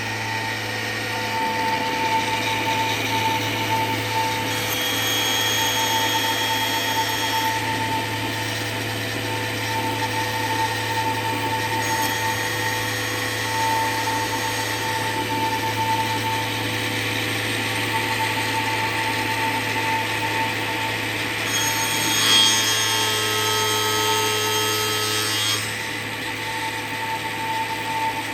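CNC machine's right-angle head saw blade cutting: a steady whine from the spindle over a low hum, with two stretches of a few seconds each where a shriller, scraping sound of the blade biting joins in.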